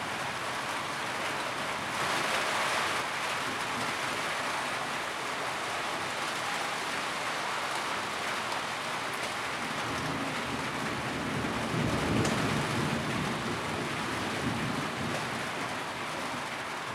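Steady rain pattering on a tin roof, a dense even hiss. A low rumble swells up about two-thirds of the way through and fades again.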